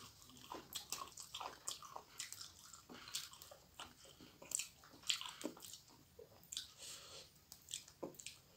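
Close-up eating sounds: irregular crunching and chewing with wet mouth clicks, mixed with the crackle of fresh mizen leaves being stripped from their stem and rice being worked by hand.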